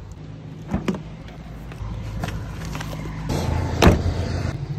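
Car engine idling with a steady low hum, with a few clicks and knocks over it, the loudest about four seconds in.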